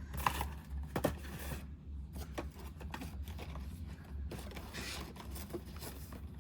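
Hands handling small cardboard blind-box packaging: a few light clicks and knocks, with a brief scraping rustle about five seconds in, over a low steady hum.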